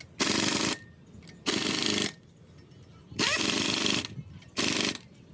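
A power tool run in four short bursts, each about half a second to a second long, with a fast rattle.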